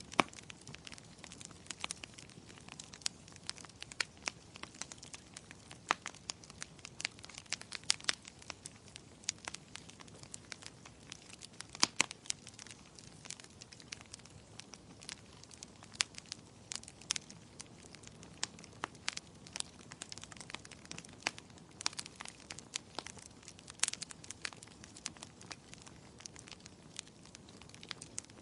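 Wood fire crackling in a fireplace: irregular sharp pops and snaps, a few louder than the rest, over a soft steady hiss.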